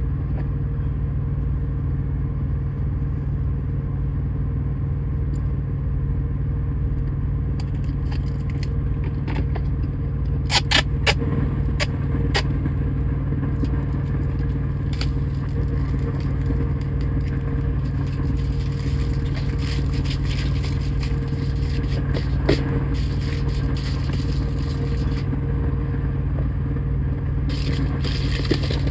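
Steady low hum of the semi truck's diesel engine, with scraping and crackling as aluminum foil and tape are worked onto a cab window. A cluster of sharp clicks comes about ten seconds in, another around twenty-two seconds, and more near the end.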